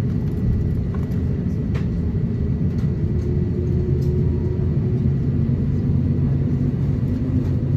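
Steady low rumble inside the cabin of an Airbus A350-900 taxiing on the ground, its Rolls-Royce Trent XWB engines running at taxi power with a faint steady hum.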